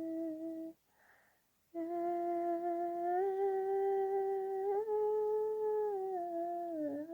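A woman humming a slow worship melody in long held notes. She breaks off for a breath about a second in, then resumes, with the pitch stepping up and later sliding down near the end.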